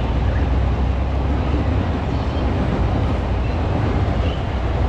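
Electric commuter train crossing a steel girder railway bridge overhead, a steady low rumble under a general hiss of city street noise.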